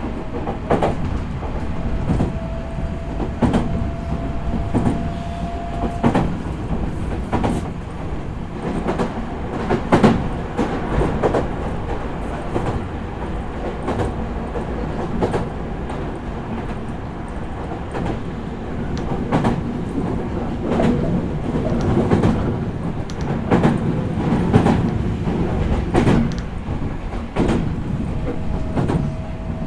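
Running sound inside a Meitetsu 4000 series electric train car in motion: a steady rumble with wheels clacking over rail joints. A faint thin tone rises slightly twice, once a few seconds in and again near the end.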